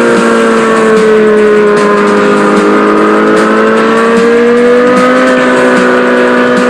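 Mini bike engine running at high revs, a loud steady drone whose pitch sags slightly and climbs back.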